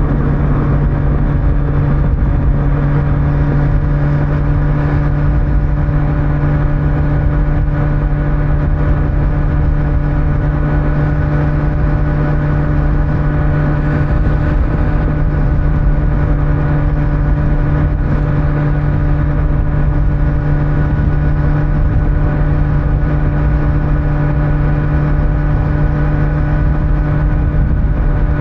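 Kawasaki Z900's inline-four engine with stock exhaust, cruising at a steady speed with an even, unchanging engine note. Wind and tyre noise run underneath.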